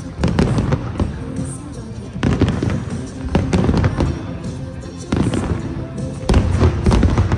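Aerial fireworks bursting in rapid volleys of bangs, with clusters of reports coming every second or so and the densest volley near the end.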